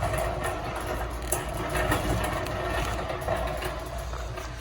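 Steady background hum and noise of a large store interior.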